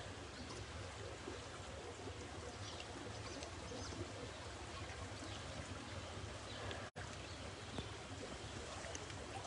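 Steady hiss of rain falling, with scattered light drop patters; the sound cuts out for an instant about seven seconds in.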